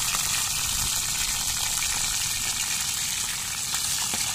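Food frying in hot oil in a pan: a steady sizzle with a few small pops.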